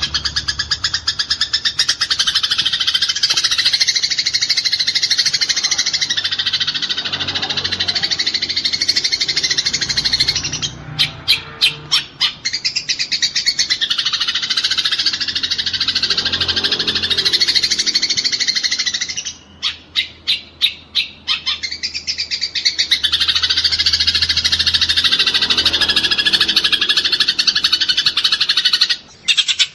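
Eurasian tree sparrows fighting, giving a fast, dense, unbroken chatter of high chirps. Twice, about a third and two-thirds of the way through, the chatter breaks into a string of separate sharp chirps before running on.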